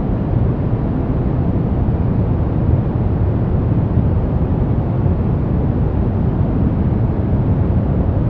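Steady deep rumbling noise, heaviest in the bass, unchanging throughout, with faint steady tones above it.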